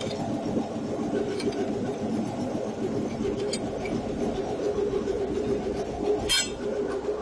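A steady mechanical hum with a constant low tone, broken by a few short sharp metallic clicks, the loudest about six seconds in.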